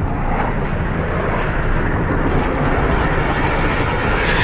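Steady, loud roar of aircraft engine noise mixed with rushing air.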